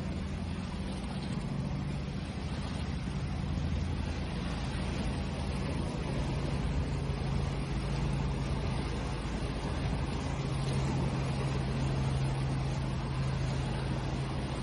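Continuous wash of sea waves with a steady low engine-like hum underneath, the loudness rising and falling gently.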